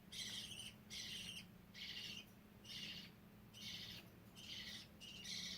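Budgerigars chirping: a faint, steady series of short, high calls, about one a second.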